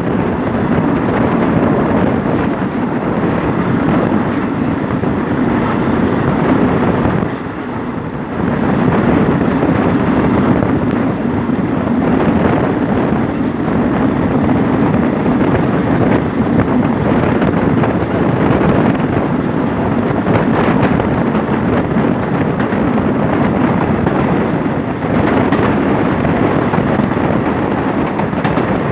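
Steady running noise of a moving express passenger train, rumbling along the rails, heard from a carriage window with wind rushing past the microphone. The noise briefly drops about seven seconds in, then picks up again.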